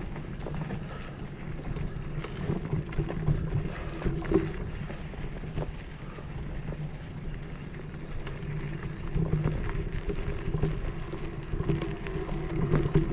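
A steady low engine-like hum with wind noise on the microphone and scattered faint clicks.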